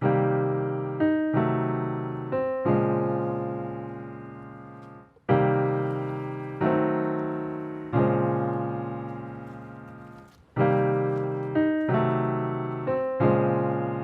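Background music: slow piano chords, each struck and left to fade, a new chord about every one to three seconds.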